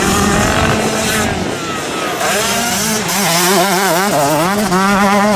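Motocross bike engine running hard on the track. About two seconds in, its pitch starts rising and falling rapidly as the throttle is worked on and off.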